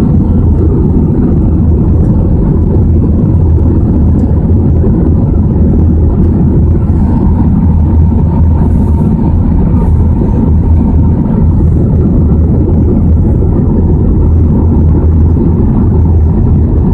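Steady loud cabin noise of an Airbus A320 in flight: a constant low rumble of engines and airflow with a faint steady hum and no change in pitch.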